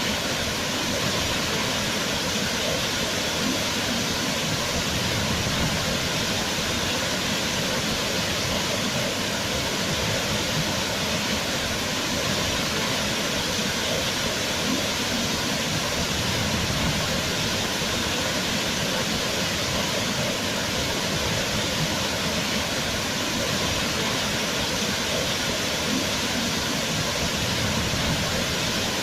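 Waterfall: a steady, continuous rush of falling water with no breaks or changes.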